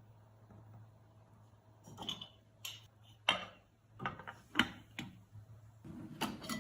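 Dishes and cutlery being handled: a string of light clinks and knocks starting about two seconds in, over a low steady hum.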